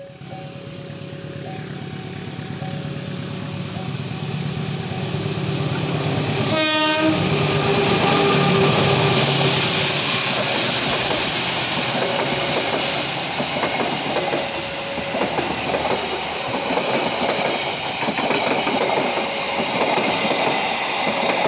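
Passenger train passing close by at speed: a brief horn note about seven seconds in, then a long rush of wheels on the rails with clickety-clack. The level crossing's warning alarm alternates between two tones under it.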